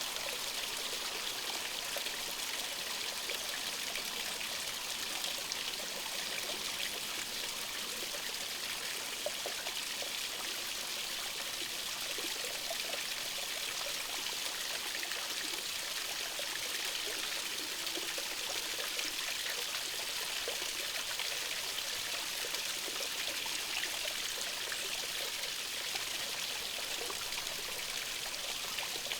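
Small stream running steadily, a continuous trickling and splashing of water.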